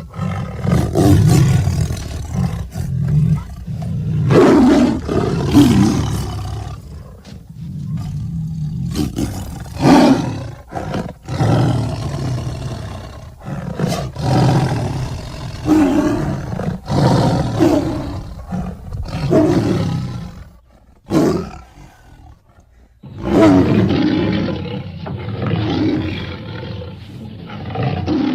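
Tiger roars and growls in quick succession, loud and repeated, with a short pause about three quarters of the way through.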